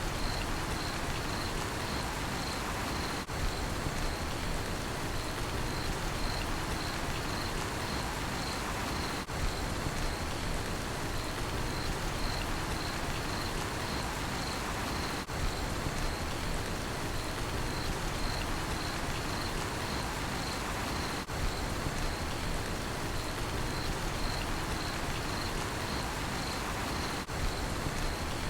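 Steady rain falling, with a cricket chirping in an even, rapid rhythm on one high pitch over it. The sound dips briefly about every six seconds.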